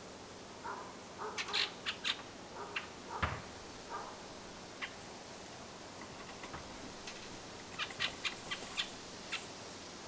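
Bird calls: short, sharp call notes in two quick runs, one in the first few seconds and another near the end. A single low thump about three seconds in.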